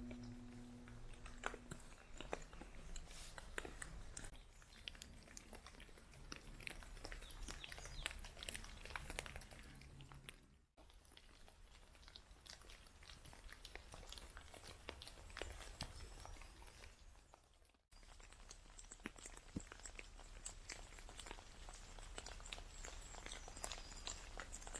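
Faint crunching and scattered clicks, with two abrupt cuts about eleven and eighteen seconds in.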